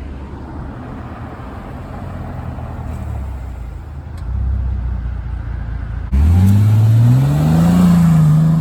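Car engines rumbling low as cars pull away, then about six seconds in a much louder car engine accelerating close by, its pitch climbing steadily, dipping briefly at a gear change and then holding.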